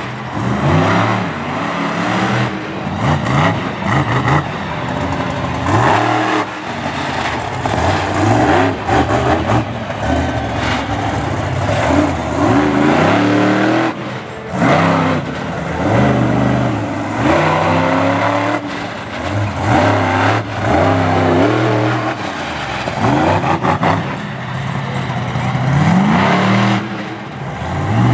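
Monster truck engine revving hard over and over, its pitch climbing and dropping with each burst of throttle.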